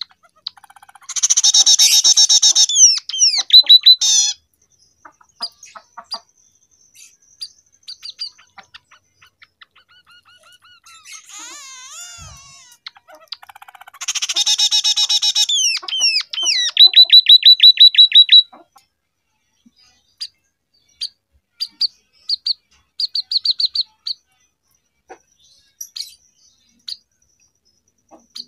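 Scaly-breasted munia (emprit peking) singing canary-style song. Two loud bursts of rapid chattering song, each ending in a quick run of falling whistled notes, with scattered short chips in between and near the end.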